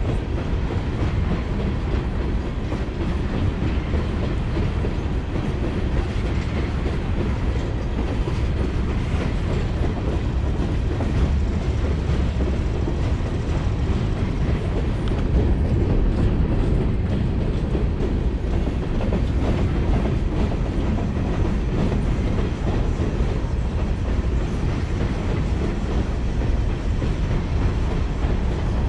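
A freight train of empty open-top hopper cars rolling steadily past, giving a continuous, even rumble of wheels on rail.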